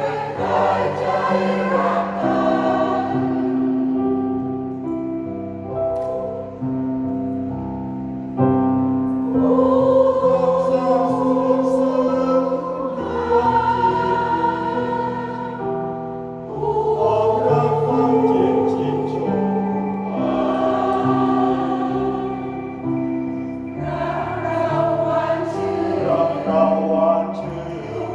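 A senior choir singing in harmony, many voices holding sustained notes that move from chord to chord.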